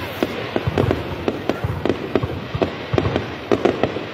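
Aerial fireworks going off in a rapid, uneven string of bangs, several a second, over a steady background rumble.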